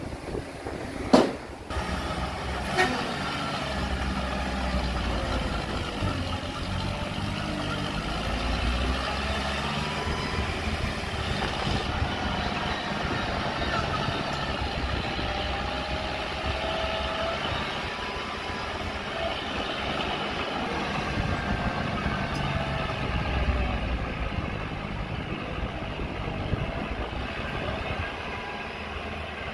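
Heavy diesel earthmoving machinery working, its engine giving a deep rumble that swells and eases several times, with a faint wavering squeal over it. A sharp bang comes about a second in, and a smaller knock about two seconds later.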